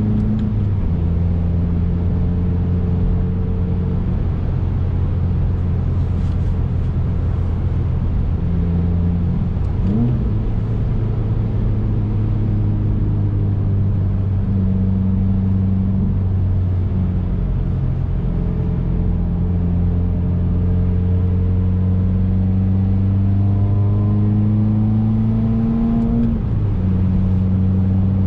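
2019 Subaru WRX's turbocharged flat-four engine running while driving under light throttle. Its pitch steps down at gear changes about a second in and near the end, with a quick rev around the middle.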